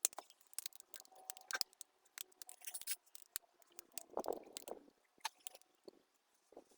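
Faint, irregular clicks, taps and rustles of metal parts and tools being handled while the oil cooler is fitted back onto the Land Rover TD5 engine.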